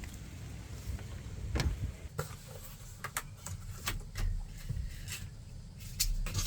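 Scattered clicks and light knocks from pieces of material being handled and test-fitted, over a low steady rumble.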